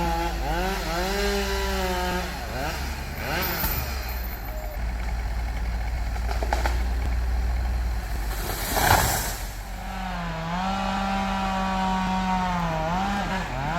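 Chainsaw felling a large tree: the engine revs high with dips in pitch, sinks under a low rumble for several seconds, then runs at high revs again. A brief loud rush about nine seconds in.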